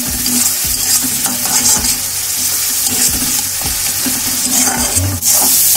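Onion paste frying in hot oil in a kadai, sizzling steadily, while a spatula stirs and scrapes it against the pan at about two strokes a second.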